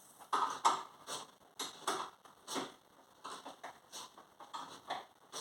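Ratchet wrench being worked back and forth while fastening the front-end parts: short bursts of clicking about twice a second.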